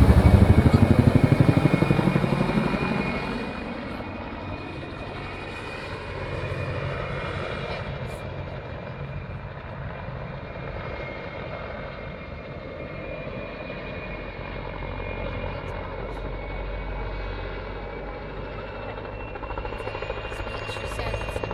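Helicopter engine and rotor running. Over the first three seconds the pitch falls and the sound drops as the engine speed sags during the landing. It then runs steadily quieter and builds up again near the end.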